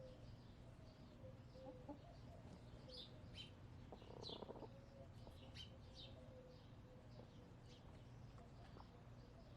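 Faint backyard hens making soft, low, drawn-out contented murmurs with a few quiet clucks, the loudest cluster about four seconds in. Small wild birds give short high chirps in the background.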